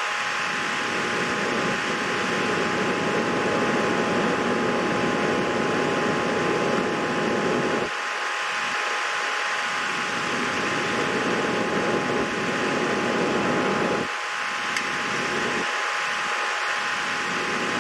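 Steady whirring noise, like a small fan or motor, with a faint steady whine. A lower rumble within it cuts out abruptly about eight seconds in and again about fourteen seconds in.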